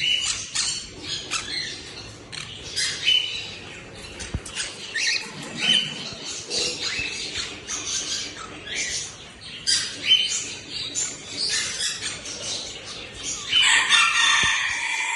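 Pet lovebirds chirping and squawking in quick, repeated sharp calls, with a louder, denser burst of squawking near the end.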